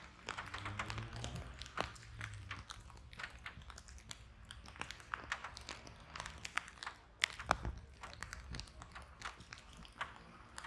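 Wood fire in a fireplace crackling, with irregular sharp pops and a couple of louder snaps about seven seconds in, over a low rumble of the flames.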